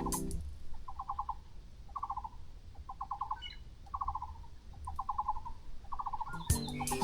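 A bird calling: a short, quick trill of pulses repeated about once a second. Background music comes back in near the end.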